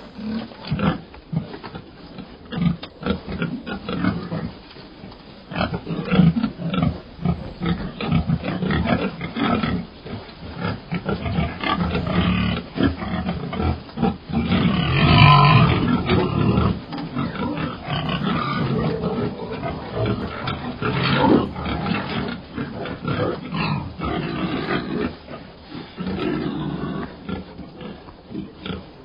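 Domestic pigs grunting over and over in short, irregular grunts, with a louder, higher-pitched call about halfway through.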